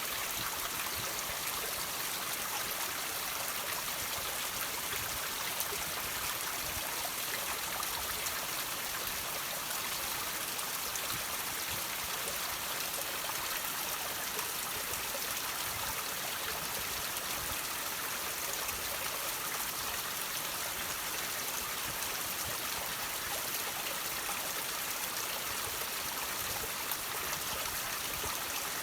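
Water running and trickling over rocks, a steady splashing hiss with faint scattered drips.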